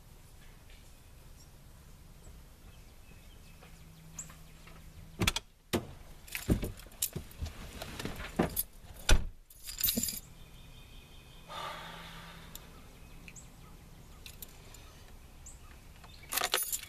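Keys jangling, with a cluster of sharp clicks and knocks over a few seconds, then a soft rustle and a few more clicks near the end.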